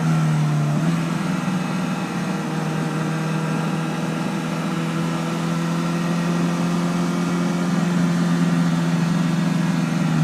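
Honda CBR1000RR sport bike's inline-four engine running at a steady, even pitch while riding, with a noise haze over it.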